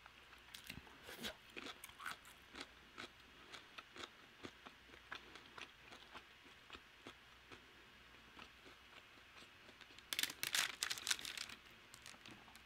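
Close-miked chewing of crispy Korean fried chicken: faint, irregular crunches and mouth clicks, with a denser run of crackling about ten seconds in.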